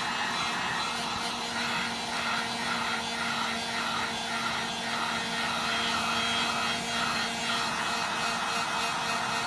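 Heat gun running steadily, blowing hot air with a constant hum to heat the phone's glass so it can be lifted off.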